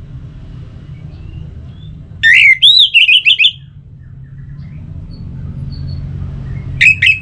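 Orange-headed thrush singing: a loud phrase of quick, rising and falling whistled notes about two seconds in, and another phrase starting near the end, over a steady low hum.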